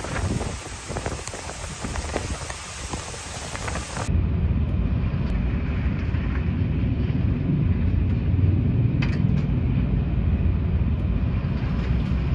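Thunderstorm: heavy rain with sharp crackles of thunder. About four seconds in it cuts abruptly to a louder, steady low roar of the storm.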